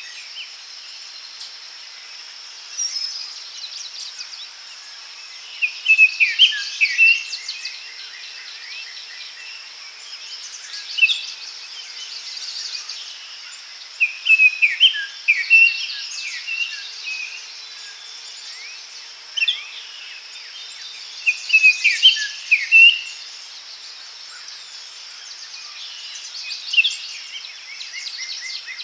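Daytime forest ambience: songbirds singing short, chirping phrases every few seconds over a steady high-pitched insect drone.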